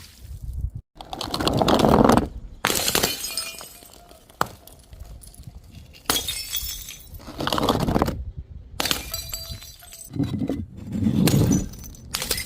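Glass bottles smashing one after another: several separate crashes of breaking glass, each followed by a trail of scattering shards, in quick succession with abrupt cuts between them.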